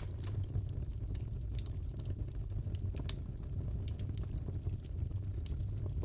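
Crackling fireplace fire: a steady low rumble with scattered small pops and snaps of burning wood.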